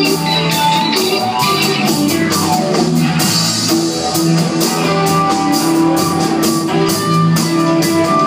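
Live rock band playing, with guitar and a drum kit keeping a steady beat under held notes.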